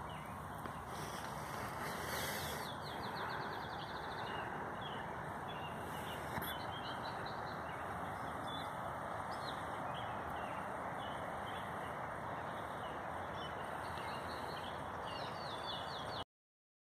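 Songbirds chirping and singing over a steady outdoor hiss. A rapid trill comes about two seconds in and another near the end, and the sound cuts off suddenly just before the end.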